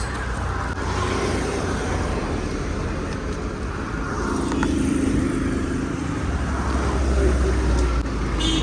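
Road traffic: motor vehicles running and passing close by, a steady low rumble that grows stronger toward the end.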